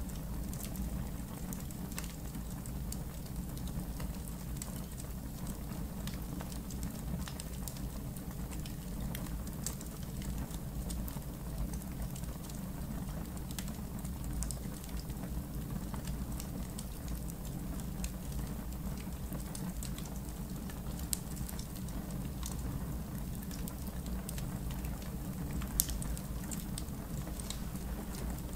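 Wood fire in a fire pit crackling, with scattered sharp pops and snaps over a steady low rumble; a louder pop stands out near the end.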